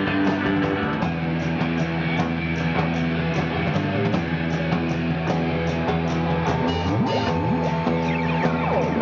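Rock band playing live in an instrumental stretch of the song: electric guitar over drums, with cymbal strokes keeping a steady beat and notes sliding in pitch near the end.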